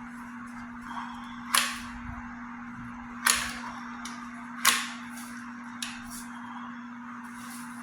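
Sharp snaps of Christmas tree branches being trimmed: three loud cracks spaced about one and a half seconds apart, then a weaker one, over a steady low hum.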